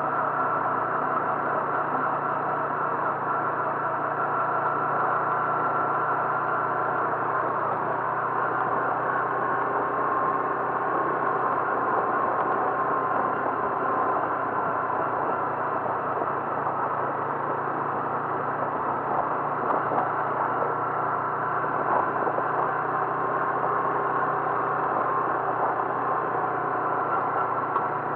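A car's engine and road noise running steadily, with a thin whine that drifts slightly in pitch and no breaks.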